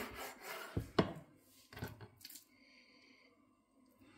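Knife cutting raw chicken on a chopping board: a few short knocks of the blade on the board, the sharpest about a second in.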